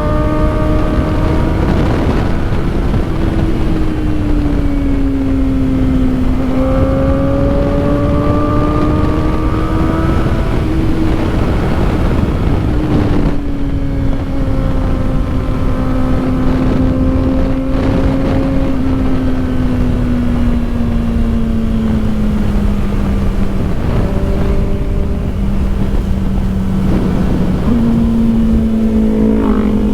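Kawasaki Ninja ZX-4RR's inline-four engine running at speed, its note climbing and then easing slowly downward, with a sudden step up in pitch near the end, over a steady rush of wind on the microphone.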